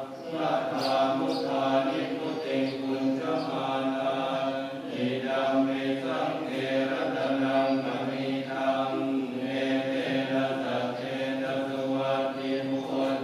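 Voices chanting together on one low, steady pitch, like a Buddhist chant or mantra.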